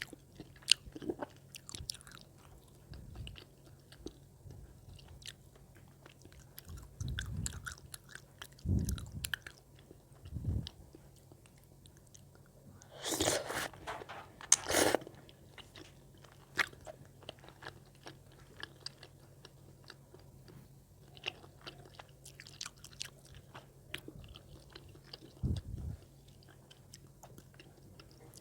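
Close-miked chewing of spicy tteokbokki rice cakes, with wet mouth clicks and smacks. There are a few low thuds, and two louder bites about halfway through.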